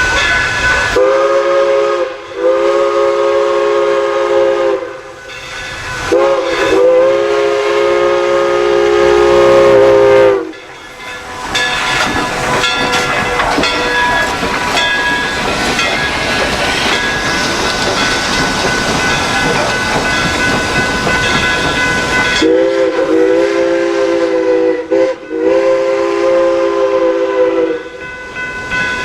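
Steam locomotive chime whistle sounding several long blasts, each a steady chord of close notes that starts and stops sharply. Between the second and last blasts, steam hisses loudly for about ten seconds.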